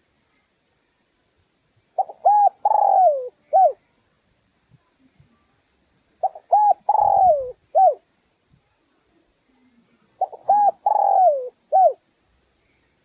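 Spotted dove cooing: three phrases about four seconds apart, each a few short notes around a longer note that falls in pitch.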